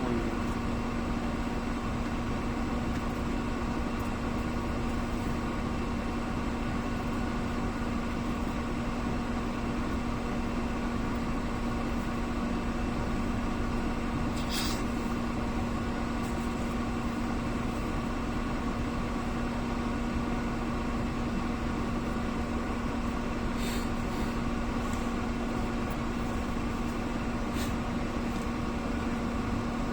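An engine running steadily at idle: a constant, unchanging hum with a strong steady tone. A few faint clicks come about halfway through and again near the end.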